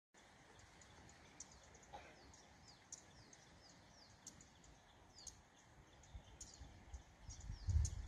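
Small birds chirping, with short, high, downward-sweeping calls repeated many times over a faint outdoor hiss. A low rumble builds near the end.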